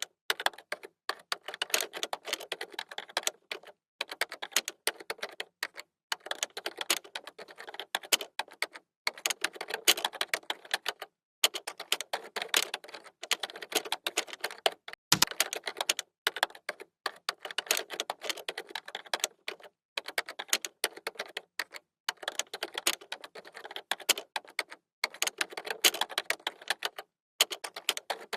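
Computer keyboard typing: rapid runs of key clicks in bursts, broken by short pauses, with one heavier keystroke about fifteen seconds in.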